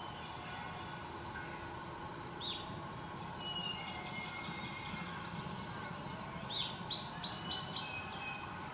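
Wild birds calling: scattered short, high arched chirps, then a quick run of about five notes near the end, over a steady background hum.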